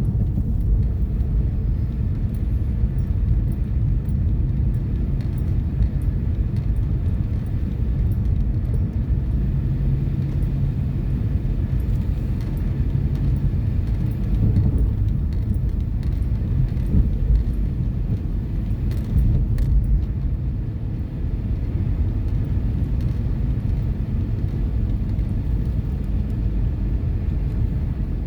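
A car being driven: a steady low rumble of engine and tyres on the road.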